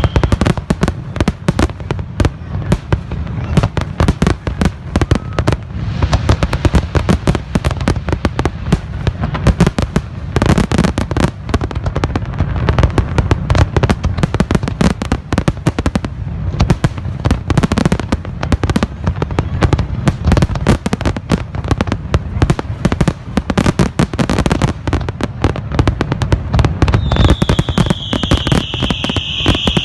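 Fireworks display going off in a dense, continuous barrage of bangs and crackles, many a second, with a deep rumble underneath.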